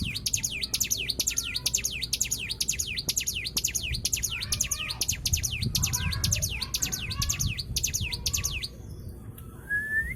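Cigun bird song played as a lure recording: a fast, even string of high chirps sweeping downward, about three a second. It stops near nine seconds in, and a single rising whistle follows near the end.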